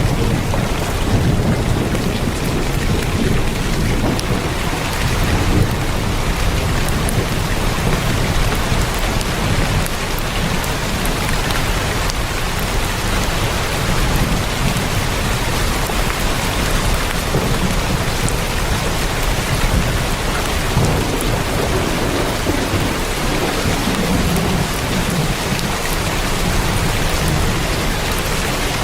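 Heavy rain drumming steadily on a tin roof, a dense even patter with a low rumble underneath that swells now and then.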